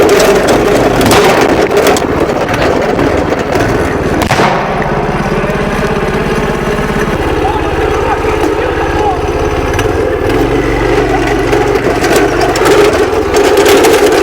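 Van engine running, its note shifting in steps about four and seven seconds in.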